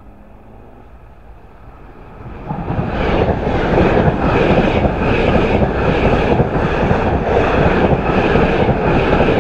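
A passenger train of two coupled Class 802 bi-mode units (802019 and 802005) approaching and passing over a level crossing. It is faint for about two seconds, then grows loud and holds as the carriages go by, with a regular beat about twice a second as the wheels pass.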